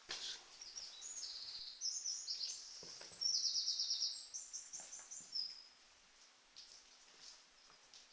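A small songbird singing a fast, high-pitched song of rapid trills and twittering phrases for about five seconds, then falling quiet, with a few faint knocks underneath.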